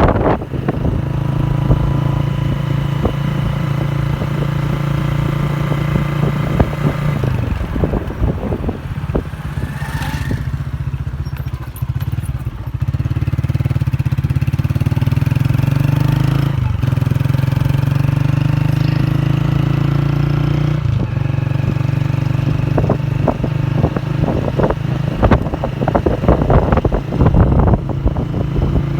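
A motor vehicle's engine running while under way, its pitch rising and dropping back several times as it changes gear, with rattling knocks near the end.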